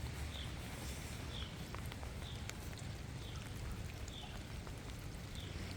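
Light rain falling outdoors, with a few scattered drip ticks over a low rumble, and a faint short high chirp repeating about once a second.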